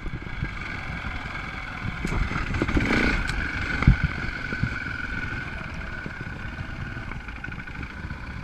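Dirt bike engine running steadily while riding, with a low rumble underneath and a slight swell in revs a few seconds in.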